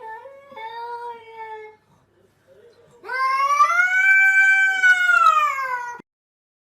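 A domestic cat's long, loud yowl lasting about three seconds, rising and then falling in pitch, then cutting off suddenly. It follows a shorter, wavering pitched call in the first two seconds.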